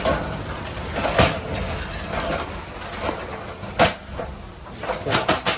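A few separate sharp knocks and clanks, then a quick run of knocks near the end, over a steady low hum.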